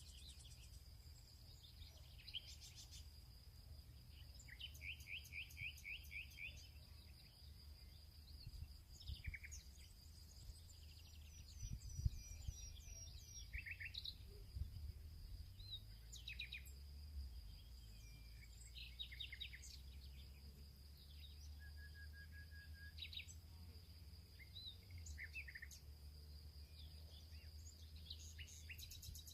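Several small songbirds chirping and trilling in open country, with short calls and rapid runs of notes scattered throughout, over a continuous high insect drone and a low rumble. A soft low knock comes about twelve seconds in.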